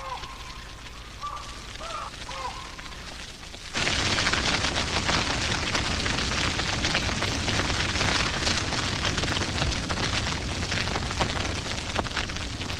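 A few short bird calls, then about four seconds in a grass fire suddenly comes up loud, a dense crackling and popping of burning grass with a low rush beneath it.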